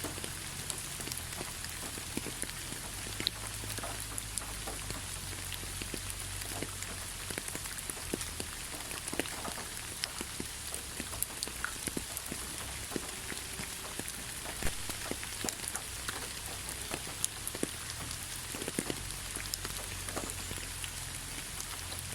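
Steady rain falling on a surface, an even hiss with many individual drops pattering and ticking close by.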